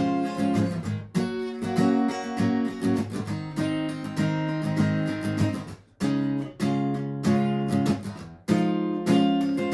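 Strummed steel-string acoustic guitar, a Martin GPCPA4, playing rhythmic chords with a short break about six seconds in.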